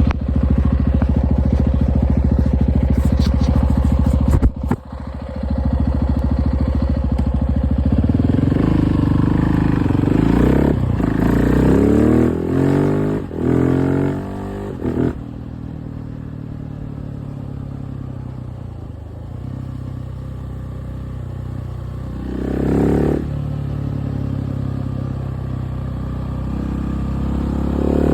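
KTM 690 SMC R single-cylinder engine on the move. It runs steadily at first, dips briefly about five seconds in, then revs up in several rising pulls as the bike accelerates. After that it settles to steadier, lower running, with further pulls later and near the end.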